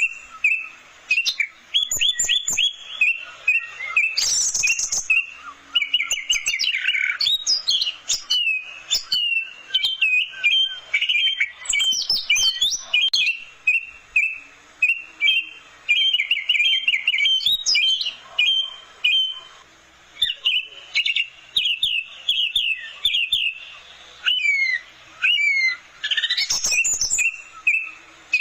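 Orange-headed thrush (anis merah) singing long runs of quick repeated notes and whistled phrases, with only brief pauses between them.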